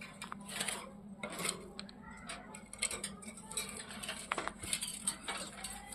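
Ringneck parrots scuffling: a run of irregular sharp clicks and clinks.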